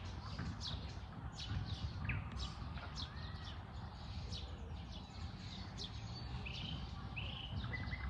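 Birds chirping, many short quick calls several times a second, over a steady low rumble.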